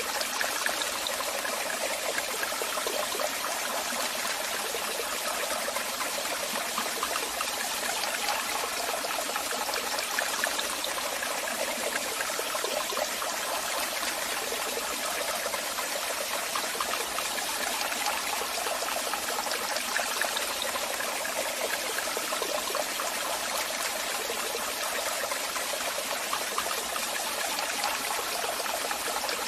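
Waterfall: a steady, even rush of falling and splashing water, mostly hiss with little deep rumble.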